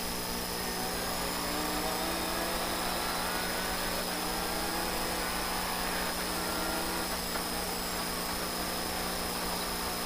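Citroën DS3 rally car's engine running, heard from inside the cabin with road noise, at a steady level with slight drifts in pitch.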